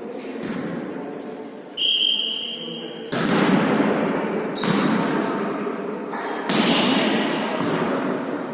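A high steady whistle for about a second, then four sharp hits of a volleyball being struck and bouncing, each ringing on in the echo of a large hall.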